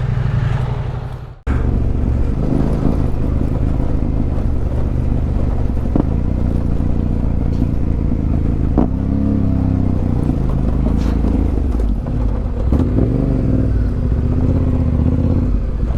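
Yamaha Tenere 700's parallel-twin engine running steadily while riding, with a sudden brief dropout about a second and a half in. The engine note shifts in pitch around nine seconds in.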